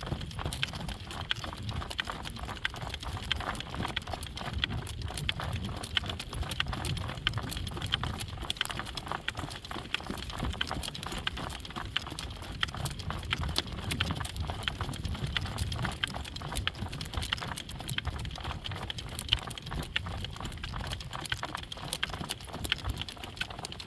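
Horse trotting in harness, its hoofbeats a steady fast clip-clop, with wind rumbling on the microphone.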